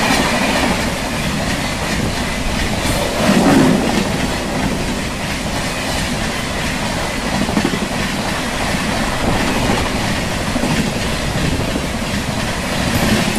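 Express train's passenger coaches rushing past at speed, the wheels clattering on the rails in a continuous loud rumble.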